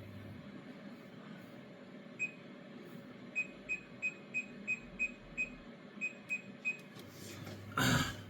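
Digital timer beeping with each button press as it is set, about eleven short, high beeps spaced about a third of a second apart, with a pause partway through. A brief knock near the end.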